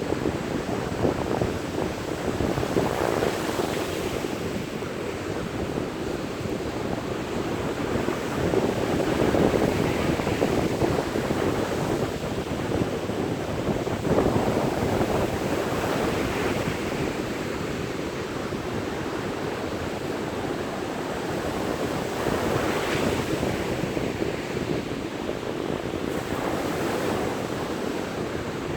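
Sea surf breaking on a beach, a continuous wash that swells and recedes as waves come in every several seconds.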